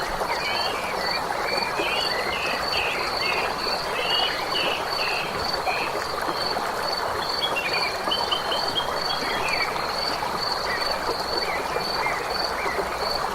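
A dense chorus of frogs calling, with a high, evenly pulsing trill of insects or frogs at about three pulses a second over it, and short chirping calls scattered through.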